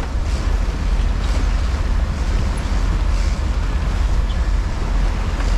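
Boat's engine running steadily, with rushing wind and water noise over it.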